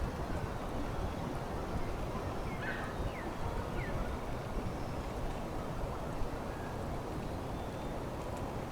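Steady low outdoor rumble with a few short, falling bird chirps about three seconds in.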